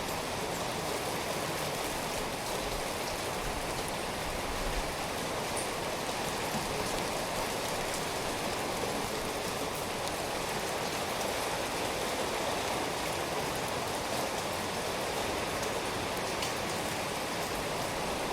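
Steady rainfall: an even, unbroken hiss with scattered faint ticks of individual drops.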